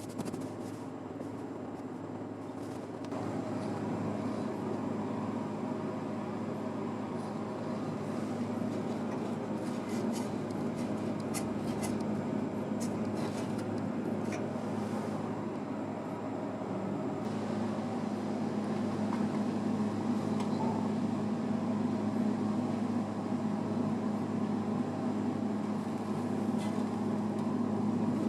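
A steady low mechanical hum, with a few faint clicks and taps.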